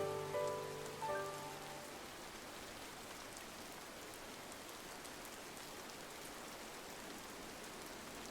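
Steady rain on a window, an even hiss with faint scattered drop ticks. Soft held music notes fade out in the first two seconds.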